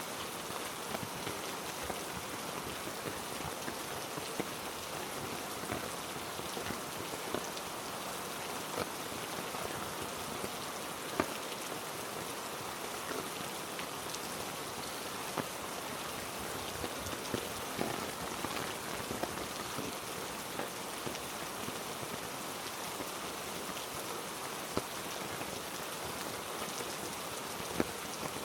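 Heavy rain falling steadily on rainforest foliage, with occasional sharp ticks of single drops.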